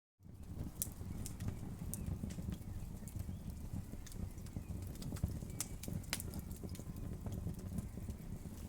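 Wood fire burning with a steady low rumble of flames and irregular sharp crackles and pops from the burning wood, after a brief dropout at the very start.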